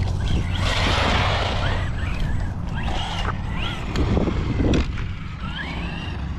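Arrma Vorteks 223S electric stadium truck running on its Hobbywing MAX10 G2 brushless system with a 2400 kV motor. The motor's high whine rises and falls several times with the throttle, after a burst of rushing noise about a second in, over a steady low rumble.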